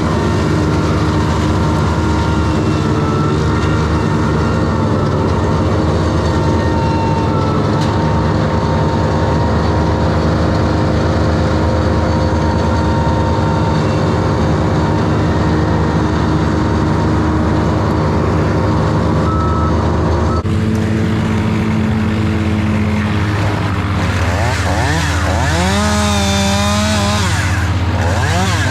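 Heavy equipment engines running steadily at high speed. In the last few seconds a chainsaw's engine note repeatedly rises and falls as it revs and cuts.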